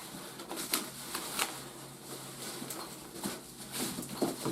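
Hands handling plastic toy parts and packaging: a few sharp clicks and taps over a light rustle.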